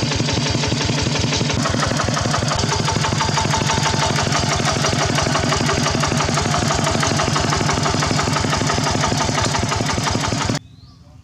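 Single-cylinder engine of a Khmer two-wheel farm tractor running steadily with a fast, even beat. It stops abruptly about ten and a half seconds in.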